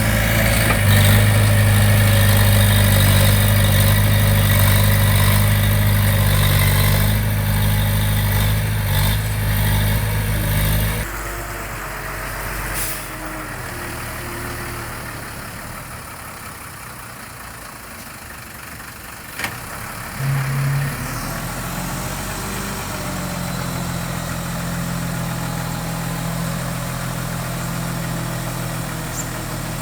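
Diesel engine of heavy construction equipment running steadily and loud. About eleven seconds in it drops suddenly to a quieter level, then settles into a steady run again after a short tone about twenty seconds in.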